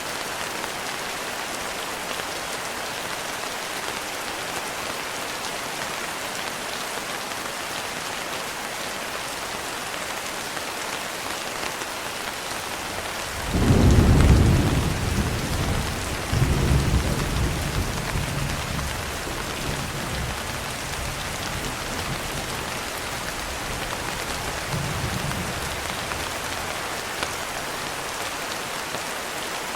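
Steady rain falling, with a thunderclap about halfway through followed by rolling thunder that fades over several seconds, and a fainter rumble of thunder later on.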